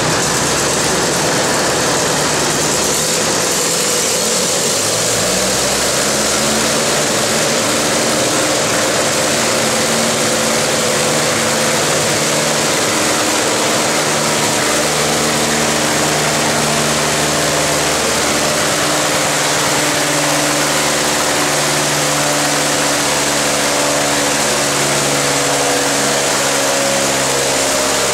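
Antique farm tractor engine running at a steady speed, its note shifting slightly in pitch a few times over a constant loud hiss.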